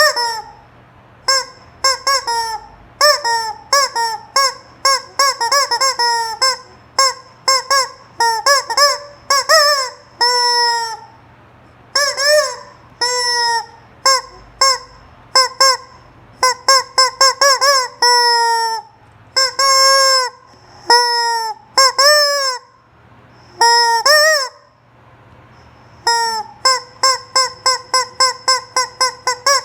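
A squeeze rubber chicken toy squawking again and again. There are short, quick squeaks, some longer squawks that rise and fall in pitch, and a rapid run of about four squeaks a second near the end.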